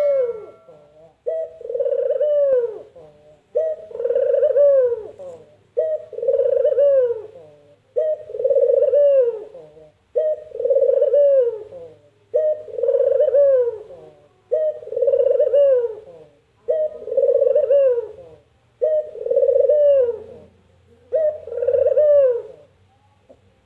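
Ringneck dove (burung puter) cooing over and over, about one call every two seconds, each a short note followed by a long falling rolled coo, the 'mpuk-jeruu' of this bird.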